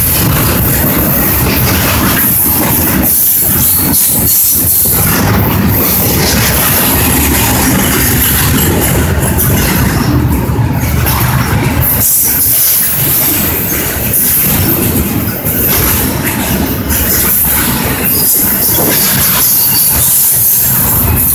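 Double-stack intermodal container train rolling past: a loud, steady rumble and clatter of its wheels on the rails.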